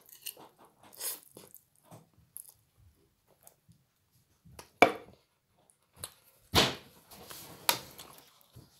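A person slurping in and chewing glass noodles (funchoza) close to the microphone. Irregular wet mouth clicks run through, with a sharp click just before the middle and two louder noisy slurps in the second half.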